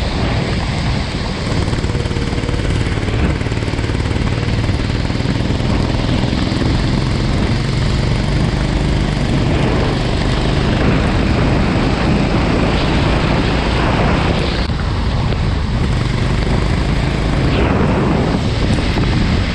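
Go-kart engine running at speed, its pitch rising and falling several times as the throttle is worked, over a steady hiss of wind and rain.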